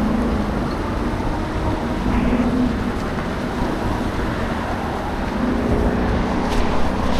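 Steady rush of road and wind noise from riding a bicycle on wet city streets, with passing traffic. A faint hum swells and fades a few times.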